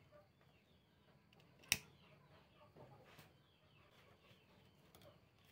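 Faint clucking and chirping of birds in the background, with one sharp click about a second and three-quarters in.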